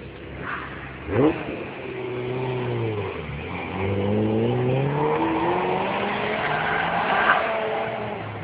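Car engine revving hard as the car accelerates, its pitch climbing and dropping several times through gear changes, with a sharp loud rev about a second in.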